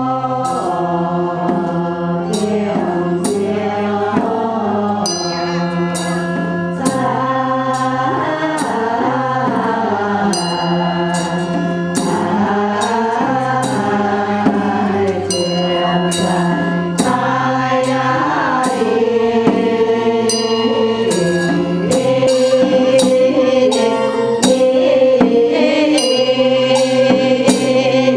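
Buddhist chant sung to music: a voice melody over held chords, with sharp percussion strikes throughout.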